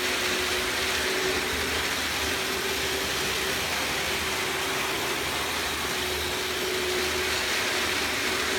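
TT scale (1:120) model train running on its track: the small electric motor gives a steady whine with one constant tone over a hiss of wheels and gearing.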